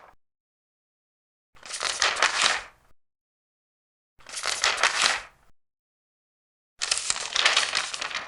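Large paper pages being turned one at a time: three rustling page turns, each lasting a little over a second, with silence between them.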